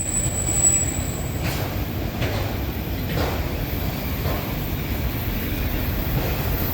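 Railcars of a passing train rolling by: a steady low rumble with a few knocks from the wheels. A thin, high wheel squeal cuts off about a second and a half in.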